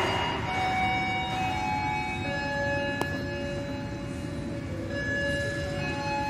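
Passenger train behind a CC 204 diesel-electric locomotive running through the station: a low rumble with several steady high ringing tones that come and go, and a single sharp click about three seconds in.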